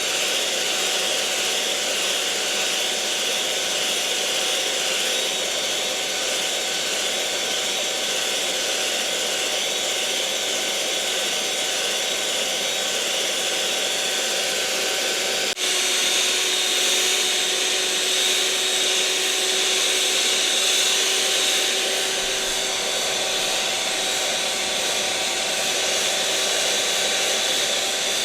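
Electric mixer motor running steadily, an even whirring noise with a faint high whine through it. About halfway through there is a brief break, after which the whine's tone changes slightly.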